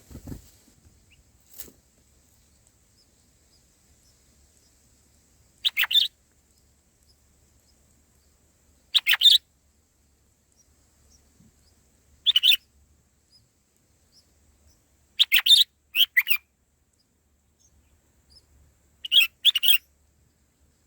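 Bulbul calling: short calls of about half a second each, made of quick pulses, repeated every three to four seconds and coming in pairs near the end. A soft thump sounds at the very start.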